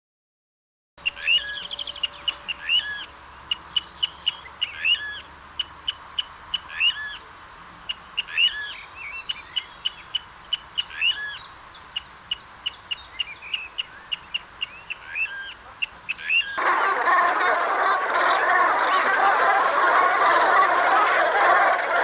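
Birds calling: quick runs of short chips and several slurred, swooping whistled calls, starting about a second in. About three-quarters of the way through, a louder, dense wash of sound takes over.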